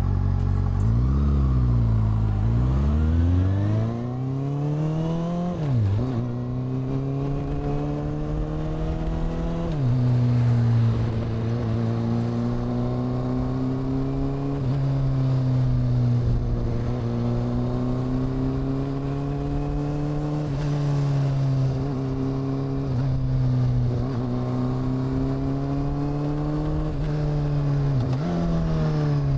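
Honda CB400 Super Four's inline-four engine with its exhaust: a short blip of the throttle about a second in, then accelerating through the gears, the pitch rising and dropping at upshifts about six and ten seconds in. It then holds a steady cruise and slows down near the end, the pitch falling.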